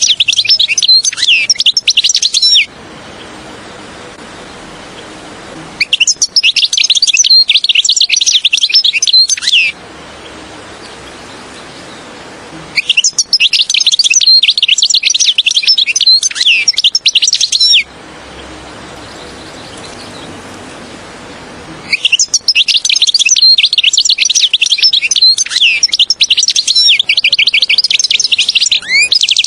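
European goldfinch singing in four bouts of rapid, jingling twitters, each a few seconds long, with short pauses of faint hiss between them. This is a recorded goldfinch song used as a lure to call wild goldfinches in.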